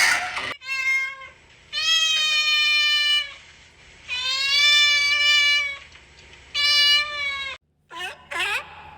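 A cat meowing: four long, drawn-out meows one after another. After a brief break, a few short, quick swooping calls come near the end.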